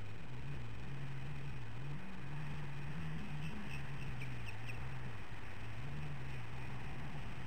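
A bird gives a quick run of five or six high, squeaky chirps a few seconds in, over steady microphone hiss and a low wavering drone.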